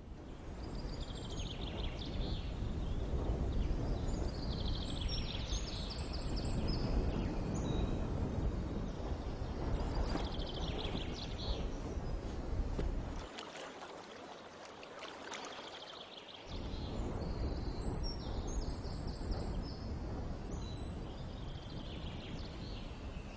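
Seabird calls, short repeated chattering notes in clusters, over a steady rushing outdoor noise. The low rumble of the noise drops away for about three seconds in the middle, then returns.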